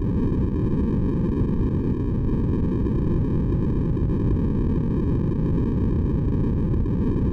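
Steady sleep-aid white noise, deep and rumbly, with most of its weight low in pitch. It runs on evenly without any change.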